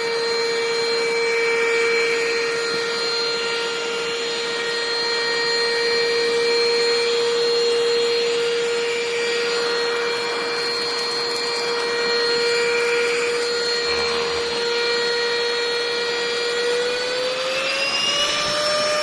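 Enolux handheld dust-mite vacuum cleaner running: a steady motor whine over the rush of air. Near the end the pitch rises as the motor speeds up.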